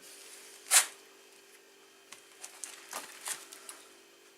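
Metal scraping and knocking as a 125cc motorcycle engine is worked out of its frame: one sharp loud scrape about a second in, then several lighter knocks and scrapes.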